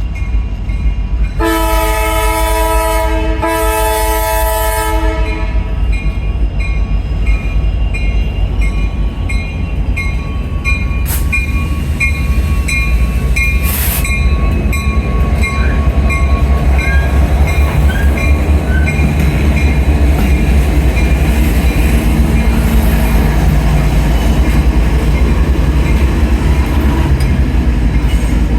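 Diesel freight locomotive's air horn sounding one long chord of about four seconds, then the steady rumble of the passing freight train, growing louder toward the end. A bell rings about twice a second through the first half.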